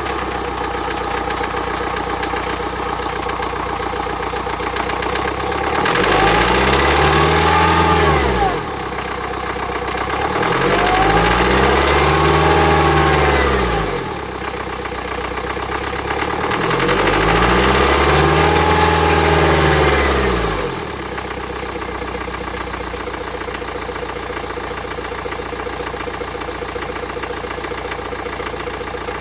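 The two-litre N47 four-cylinder diesel of a 2009 BMW X1 xDrive idling, revved up three times with the pitch rising and falling back each time, then idling again. The seller takes its noise for a sign of turbocharger damage.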